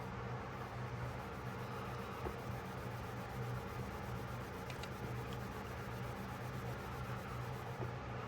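Steady low hum with faint rubbing and handling noise from working on a small pocketknife, and a couple of small clicks about halfway through.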